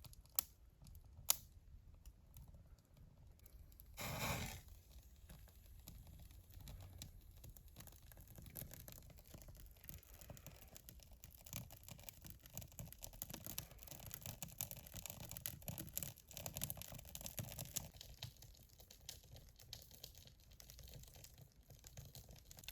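Faint rustling, crinkling and small knocks of firewood and birch bark being handled while a fire is laid in a fireplace, with a few sharp clicks at the start and a short louder rustle about four seconds in.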